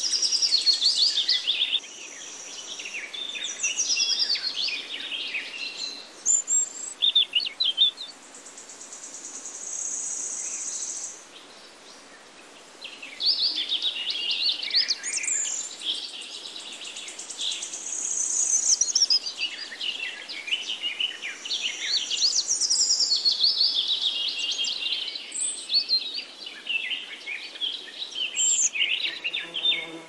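Birds singing and chirping: a busy mix of quick, high notes and a few longer trills, with brief lulls.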